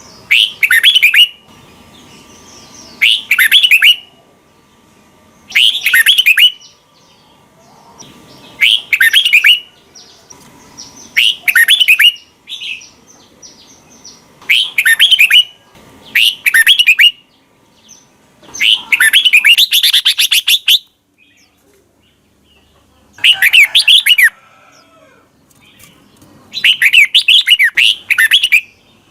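Red-whiskered bulbul singing short, loud, whistled song phrases, repeated every two to three seconds, with one longer phrase about twenty seconds in.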